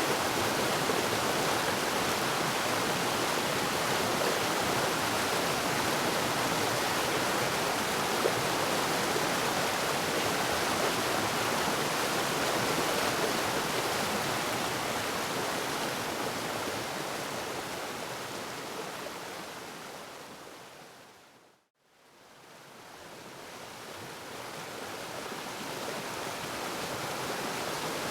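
Waterfall rushing steadily, a dense hiss of falling water. Past the middle it fades smoothly down to silence, about three-quarters of the way in, then fades straight back up to full level.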